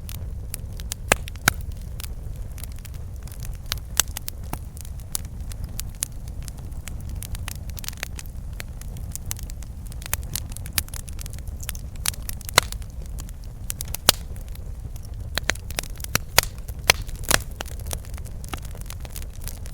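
Campfire burning: wood crackling and popping at irregular intervals, with a steady low rumble of the flames beneath and a few louder pops.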